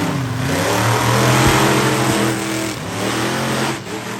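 Monster truck engine running hard under throttle, its pitch climbing and falling as it revs, with a heavy rushing hiss; it dies down near the end.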